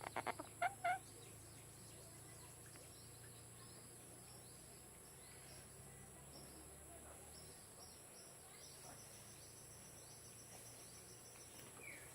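Blue-naped parrot making a quick run of about six short, chuckling calls within the first second, the last two the loudest.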